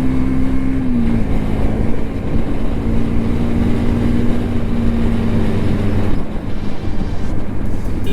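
A motor vehicle engine runs at a steady speed over a heavy low rumble; its pitch drops slightly about a second in and then holds.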